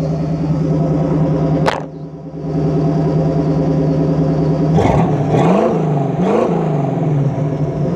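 V8 engine in a Jeep Wrangler YJ idling after a cold start, revved briefly twice about five and six seconds in before settling back to idle.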